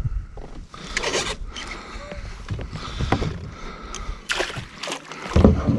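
Irregular knocks, clicks and water noise from a kayak while a hooked bass is fought on rod and reel.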